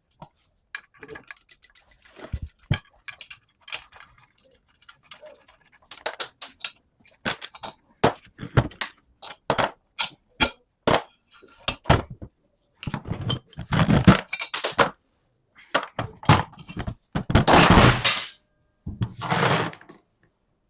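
Metal tools and parts of an AD-9 air brake dryer clinking and knocking during disassembly, in quick irregular clicks. Several longer noisy bursts come in the second half.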